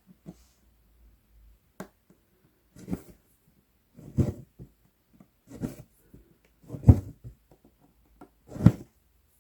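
Cross-stitch needle and embroidery floss being pushed and pulled through 11-count Aida fabric: a short rasp of thread drawn through the cloth about every second and a half, with a sharp tick early on.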